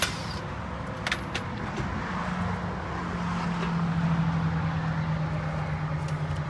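A vehicle engine running with a steady low hum that grows louder about two seconds in, with a couple of sharp clicks about a second in.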